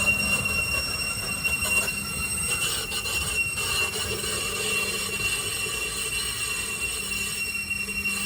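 BN coastal tram's steel wheels squealing on the rails: one steady high-pitched squeal with fainter higher overtones, over the low rumble of the tram rolling.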